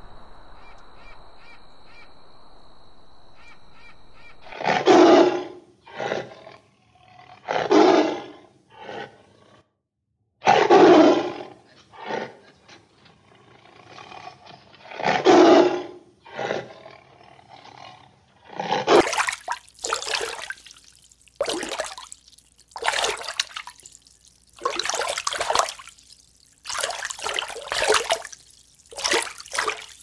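A cheetah calling: four loud growling calls about a second long, a few seconds apart, with shorter, weaker ones between. Near the end they give way to water bubbling and splashing in repeated surges.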